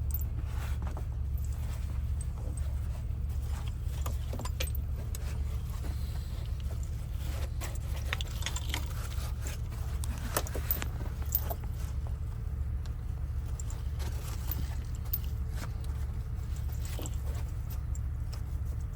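Logging truck's diesel engine running with a steady low drone, with light scattered rattles and ticks over it.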